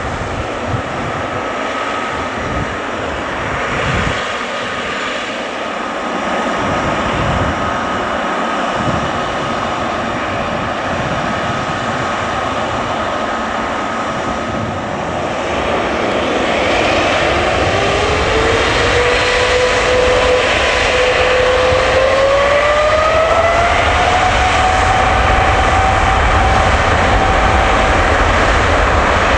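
Boeing 777 jet engines whining steadily over a broad roar. About halfway through, the whine rises in pitch in steps and the sound grows louder as the engines spool up to high thrust.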